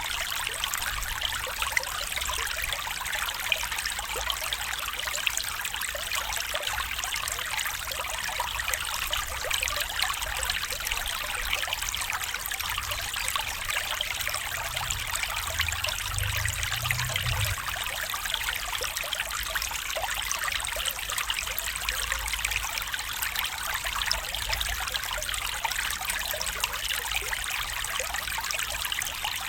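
Small stream trickling and splashing over stones, a steady babbling flow.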